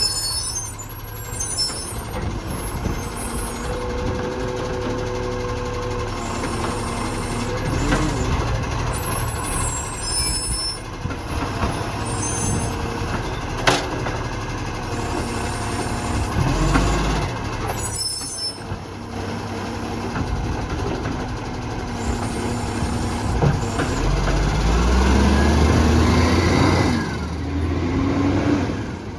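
Garbage truck's diesel engine running, with several short hisses from the air brakes. Near the end the engine revs up with a rising pitch and gets louder.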